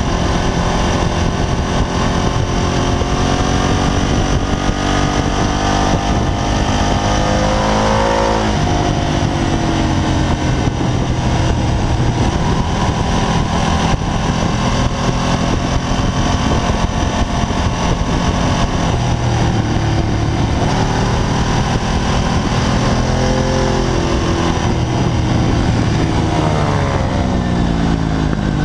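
Ducati V-twin sport bike engine at high revs, heard from onboard with heavy wind rush. The engine pitch climbs as it pulls, drops sharply about eight seconds in as it brakes and shifts down for a corner, then climbs again, with another run of falling downshifts near the end.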